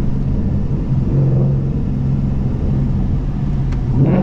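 2014 Mustang GT's 5.0-litre Coyote V8 running at a steady, light cruise, a low even exhaust drone with no revving. There is a faint click a little before the end and a brief sharper sound right at the end.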